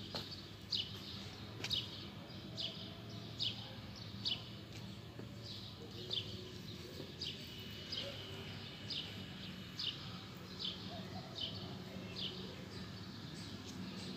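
A bird chirping over and over, a short falling chirp roughly once a second, over a steady low hum.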